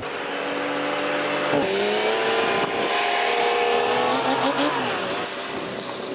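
Self-loading logging truck's diesel engine running loud. Its pitch drops suddenly about a second and a half in, then rises and falls again around four and a half seconds.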